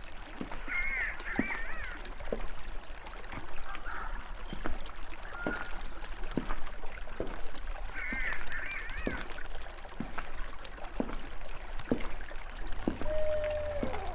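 Nature ambience of water with many small splashes and drips, over which birds call: a warbling call twice and a single falling call near the end.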